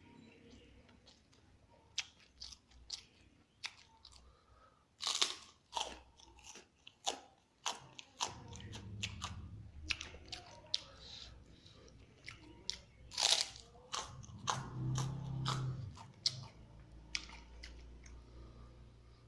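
Close-up eating sounds: crispy fried egg (telur geprek) being bitten and chewed, with irregular sharp crunches, the loudest about five seconds in and again near thirteen seconds.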